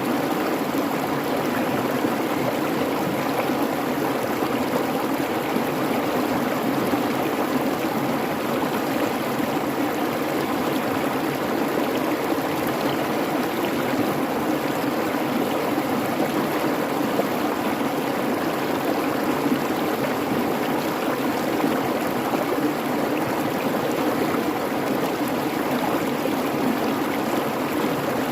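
Creek babbling, a steady, even rush of flowing water.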